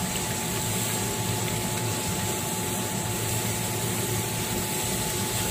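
Minced meat and onions frying in oil in a pan, sizzling steadily as a silicone spatula stirs them, over a low steady hum.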